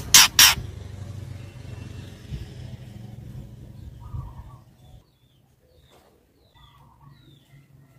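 Two loud, short harsh bursts just after the start, over a low rumble like a passing motor vehicle that stops about five seconds in. In the quieter part that follows come a few faint short chirps of a white-rumped shama.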